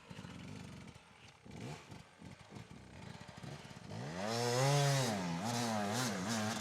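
Dirt bike engine, quiet at first, then from about four seconds in revving hard with its pitch rising and falling in several swells.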